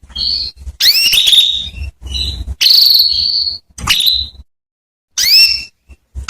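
Female domestic canary calling: a run of short, rising, whistled calls in quick clusters, with a couple of longer held whistles near the middle.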